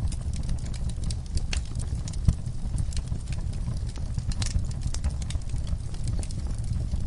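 Wood fire in an outdoor fire pit crackling: irregular sharp snaps and pops over a steady low rumble, with one louder pop about two seconds in.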